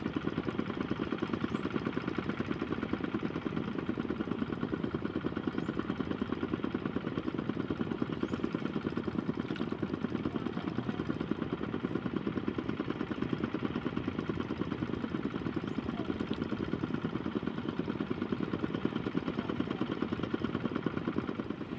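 Small motorcycle engine running at a steady speed, with a fast, even beat and no revving.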